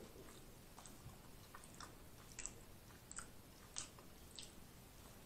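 Faint chewing of a mouthful of food, with soft wet mouth clicks; four sharper clicks come in the second half, a little under a second apart.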